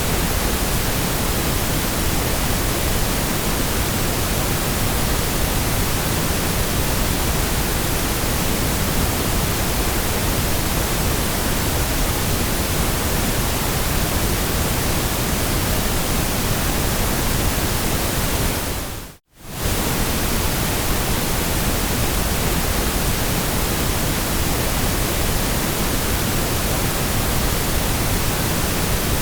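Steady, even hiss of a white-noise sleep track. About two-thirds of the way through it fades out to near silence over about a second, then comes straight back.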